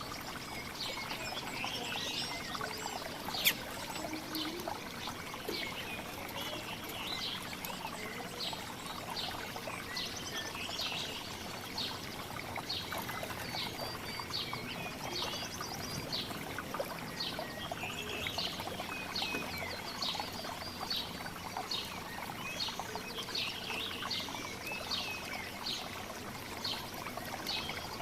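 Small songbirds chirping and calling in quick, overlapping short notes, over a steady rushing background noise. A single sharp click sounds about three and a half seconds in.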